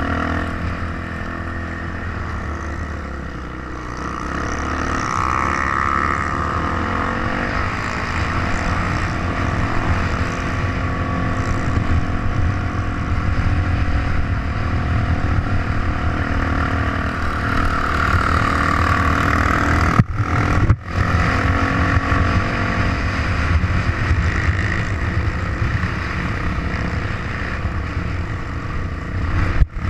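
Trail motorcycle engine running steadily under way, its pitch shifting a little. The sound drops out briefly about twenty seconds in.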